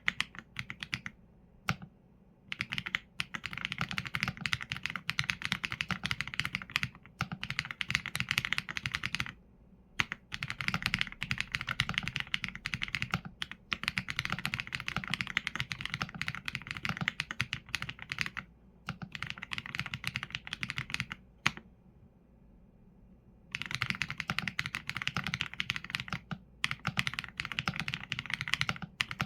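Fast typing on a mechanical keyboard with Leobog Graywood V4 linear switches and PBT keycaps: dense runs of keystroke clacks, broken by short pauses and one longer pause of about two seconds past the middle.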